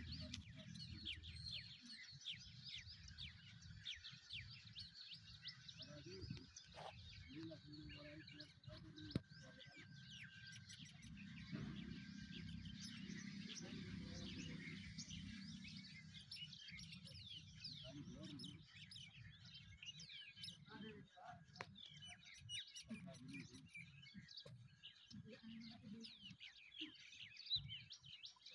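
Many small birds chirping rapidly and continuously, faint, over a low hum, with scattered light knocks and a few distant voices.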